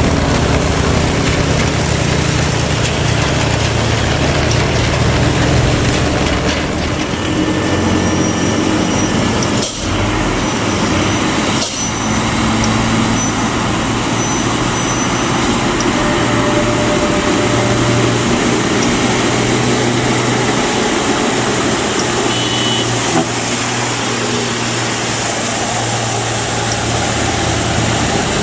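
Hino truck's diesel engine running hard under load on a steep uphill climb, its pitch shifting as it goes, with two brief dips in level about ten and twelve seconds in.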